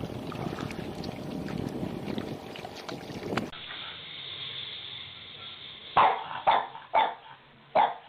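A rushing, wind-like noise that cuts off abruptly, then a dog barking four times in quick succession, sharp short barks about half a second apart.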